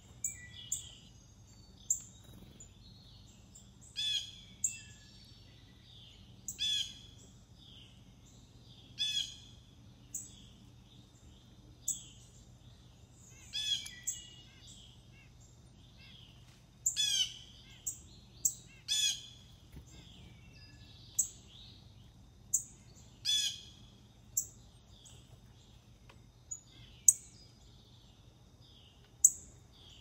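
Wild birds calling: every few seconds a loud call made of a quick cluster of downward-sweeping notes, some in pairs close together, mixed with many short, sharp high chips.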